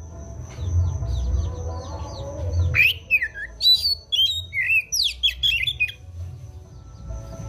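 Oriental magpie-robin (kacer) song: a run of quick, short high notes, then from about three seconds in a louder string of varied sweeping whistles and harsh squawky notes. A low rumble runs underneath.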